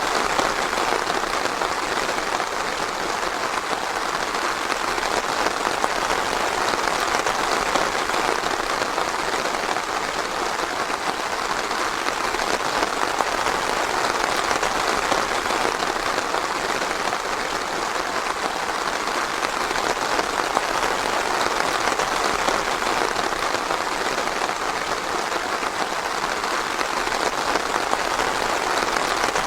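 Steady light rain falling in a forest, a dense even patter of drops with no breaks.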